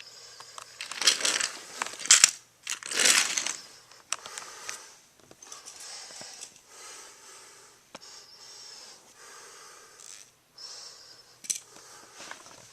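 Irregular bursts of crinkling, rustling noise, loudest about one and three seconds in, with a softer hiss in between.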